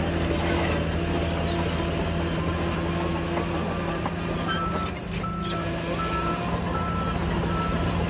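Heavy diesel earthmoving machinery running steadily with a low hum. A reversing alarm beeps at an even pace from about halfway through, roughly three beeps every two seconds.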